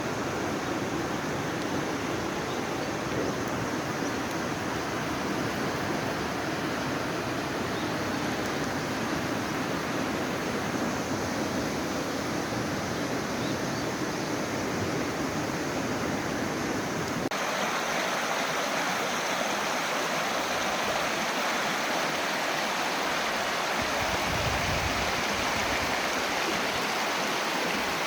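Mountain stream water rushing steadily over rocks. About 17 s in, the sound changes abruptly to a thinner, brighter hiss of water.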